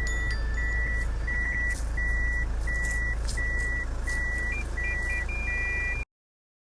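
Toyota HiAce van's reversing warning beeper sounding at an even pace, about one high beep every 0.7 s, over the steady rumble of the running engine, as the van backs in to park. The sound cuts off about six seconds in.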